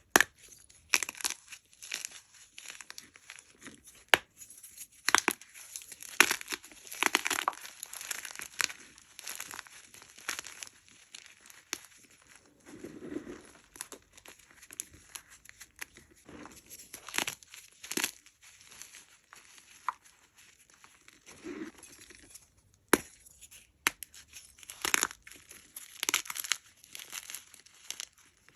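Hard blocks of gym chalk being crushed and crumbled: irregular crunching and crackling, with a few sharp snaps.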